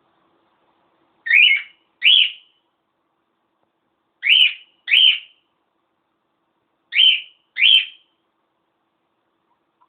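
Cockatiel calling: three pairs of short, whistled calls that sweep upward, the pairs about three seconds apart.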